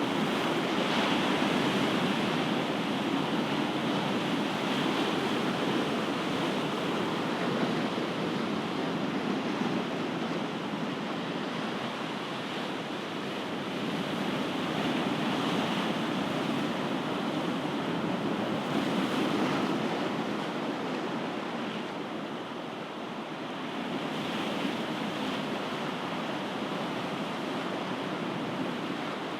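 Ocean waves: a continuous wash of surf that swells and eases every few seconds.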